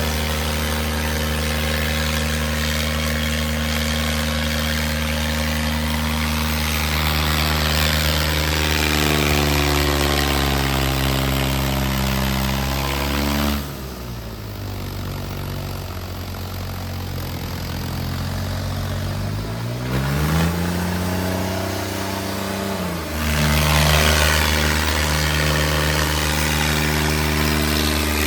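Tractor diesel engine running at high revs under heavy pulling load in a tractor tug-of-war. About halfway through, the engine note drops sharply lower and quieter for several seconds. It then climbs back up to full revs a few seconds before the end.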